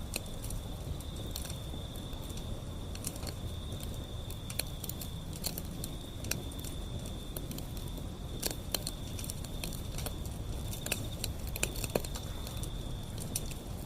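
Wood fire burning, with irregular sharp crackles and pops over a low steady rumble. A steady thin high-pitched tone runs underneath.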